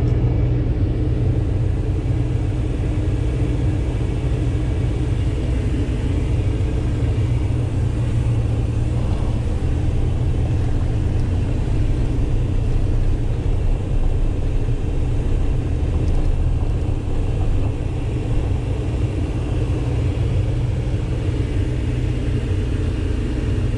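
Truck engine running at low speed, a steady low rumble heard from inside the cab.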